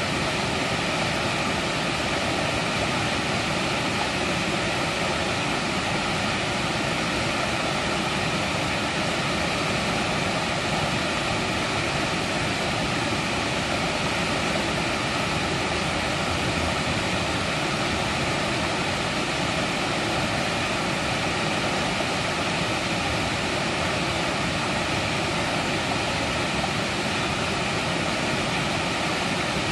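Mountain stream water rushing over rocks, a steady even rush with no change.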